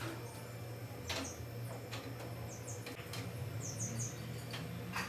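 Several faint, short high chirps of small birds, with a few light clicks and taps spread through and a steady low hum underneath.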